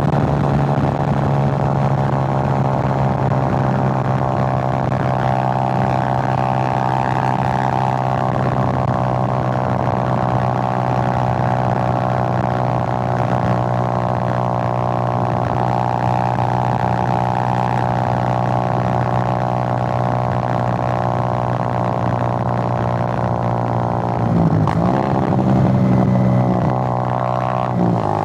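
Suzuki GN125's single-cylinder four-stroke engine pulling at a steady cruising speed while the bike is ridden. Near the end the revs drop and pick up again twice, as with a throttle change or gear shift.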